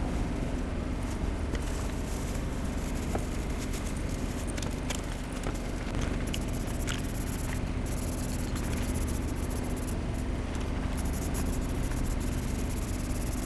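Aerosol spray paint can hissing in passes, its hiss breaking off for a moment a few times, over a steady low hum and rumble with scattered light clicks.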